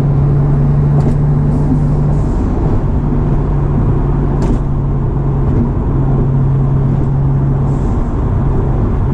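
Twin-turbocharged V6 of a 1999 Acura NSX droning at a steady pitch while cruising, heard from inside the cabin over road and wind noise.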